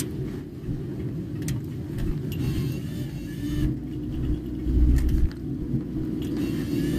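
Road and engine rumble inside a moving car's cabin, steady and low, with a heavier low thump about five seconds in.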